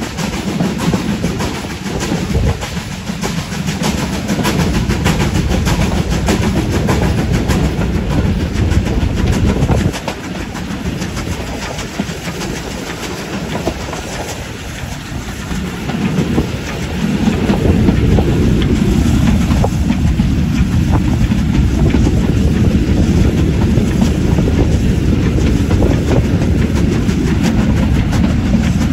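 Steam-hauled train running, its carriage wheels clattering over the rail joints with a steady rumble, heard from an open carriage window. It grows louder about two-thirds of the way through.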